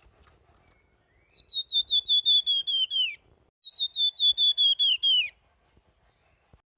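Flamboyan songbird singing two quick phrases of rapidly repeated clear whistled notes, each phrase sagging lower in pitch at its end.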